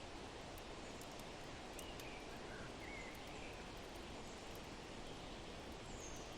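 Forest ambience: a steady, faint rush of wind with a few small bird chirps about two to three seconds in and a single high chirp near the end.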